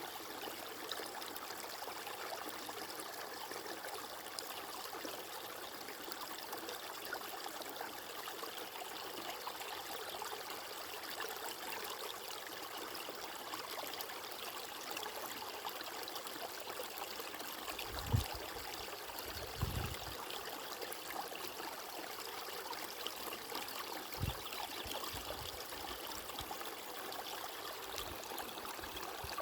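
Flowing water, a steady even rush like a stream, with a few brief low thumps a little past halfway and again later.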